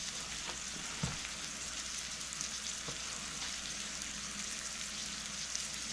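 Bell peppers and onions frying in garlic-flavoured oil in a skillet, a steady sizzle, with a soft knock about a second in.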